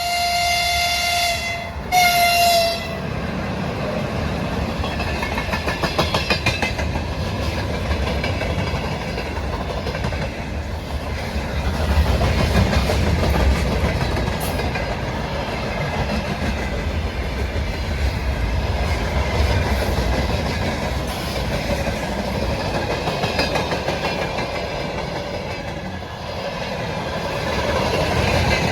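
2ES6 electric locomotive sounding its horn twice, a long blast and then a shorter one, followed by the steady rumble of a freight train's wagons rolling past with clickety-clack of wheels over rail joints.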